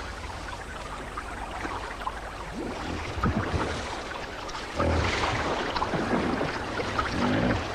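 Hippos moving through a shallow pool of mud and water, with sloshing and splashing that grows louder about five seconds in. A short, low, pitched call, likely a hippo grunt, comes near the end.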